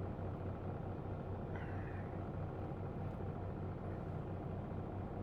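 Semi truck's diesel engine idling, a steady low hum heard inside the cab. About a second and a half in comes one brief high squeal that falls in pitch.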